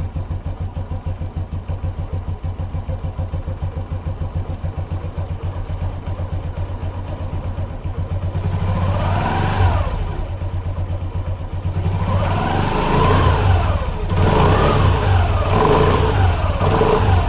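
Scooter engine idling with a fast, even beat, then revved: one rise and fall in pitch around the middle, then several quick revs near the end.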